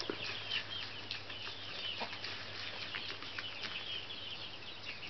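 Birds chirping faintly in the barn: many short, high chirps, with a soft tap about two seconds in.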